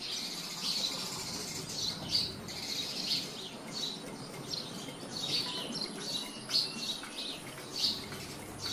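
Small birds chirping, short high calls coming about twice a second.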